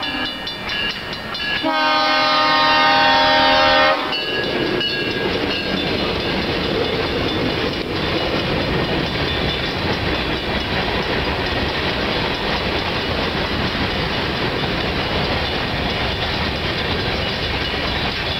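CSX freight train passing at a grade crossing. The locomotive horn sounds one long chord blast about two seconds in, which cuts off at about four seconds. A line of covered hopper cars then rolls steadily past, their wheels clicking over the rails.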